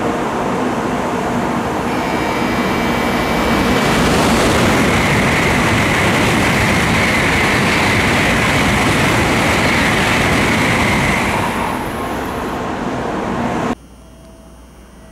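N700 series Shinkansen running through the station at speed without stopping: a loud, dense rush of rolling and wind noise with a steady high whine through the middle, easing off near the end. About 14 s in it cuts off abruptly to a much quieter background.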